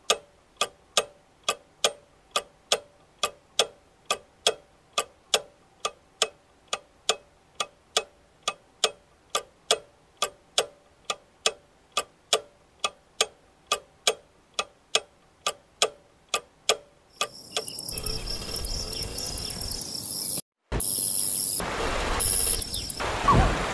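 A clock ticking steadily, about two and a half ticks a second. After some seventeen seconds it gives way to outdoor ambience with a steady high-pitched chirr, broken by a brief dropout, and a louder noise near the end.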